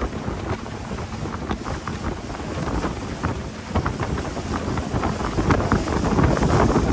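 Wind buffeting the microphone over open sea water, with crackling splashes, growing louder in the second half.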